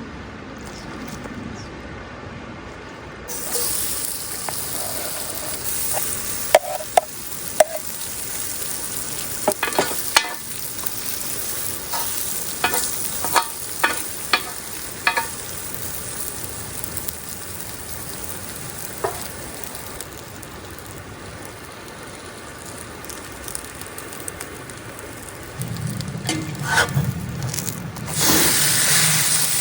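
Wood fire crackling, with a steady hiss and irregular sharp pops of burning wood, several clustered between about 6 and 15 seconds in.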